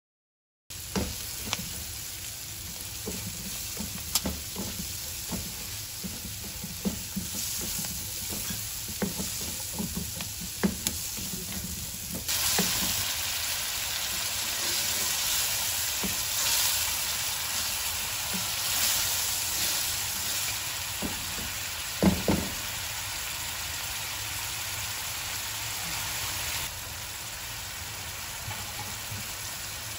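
Onions and spices sizzling in a frying pan, with a spatula stirring and knocking against the pan many times. About twelve seconds in, coconut milk is poured in and the frying turns to a louder, hissier sizzle as it is stirred, with one sharp knock a little past twenty seconds.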